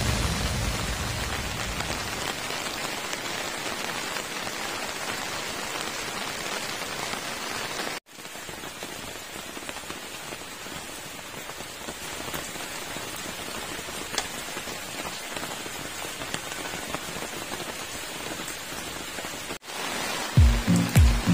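Rain falling, a steady even hiss, broken twice by brief cuts in the recording. Music with a beat fades out at the start and comes back in near the end.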